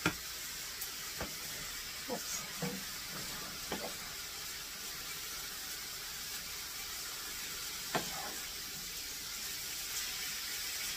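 Diced chicken sizzling in olive oil in a skillet as it is stirred with a wooden spoon. A steady hiss, broken by a few short taps and scrapes of the spoon against the pan.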